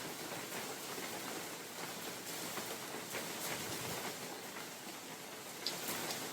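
Rain falling in a forest: a steady hiss with scattered single drops ticking through it, one louder drop near the end.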